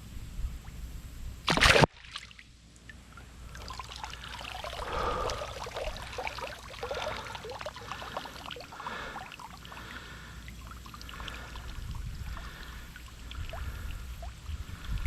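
Water splashing and trickling, an irregular patter of small splashes. About a second and a half in there is a brief loud rush that cuts off abruptly.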